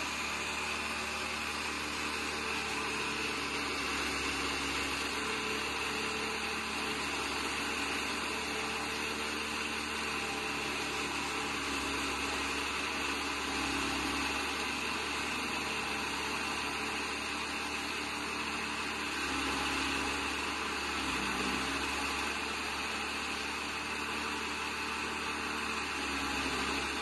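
Chaff cutter machine running steadily: a constant mechanical noise with a steady high whine.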